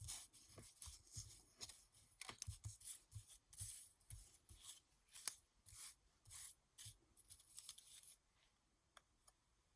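Cardstock ephemera pieces being handled: a run of short papery rustles and scrapes, which stop about eight seconds in.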